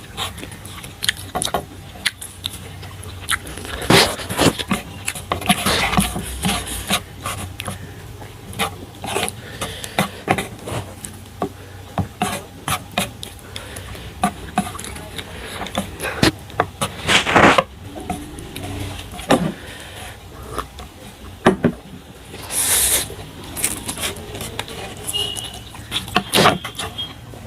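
Eating sounds of instant noodles: irregular slurps and chewing, with sharp clicks and scrapes, likely chopsticks against the bowl, scattered throughout and a few longer slurps about two thirds of the way through.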